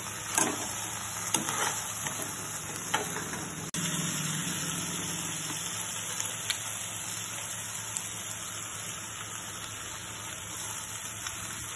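Paneer and vegetable filling sizzling steadily in a frying pan, with a few sharp taps and scrapes of a metal spoon against the pan in the first three seconds.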